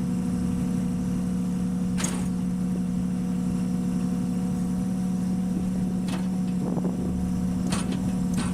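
Steady hum of a Onewheel's electric hub motor at constant speed, with wind rumbling on the microphone and a few sharp clicks.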